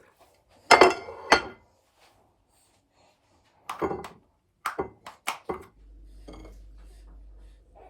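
Household clatter of dishes and utensils being handled and set down: a few sharp knocks, the loudest about a second in, then a faint low hum starting near the end.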